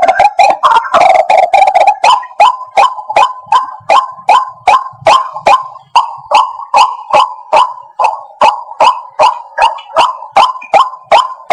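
White-breasted waterhen calling: a dense run of overlapping call notes for the first two seconds or so, then a single note repeated evenly, about two to three a second.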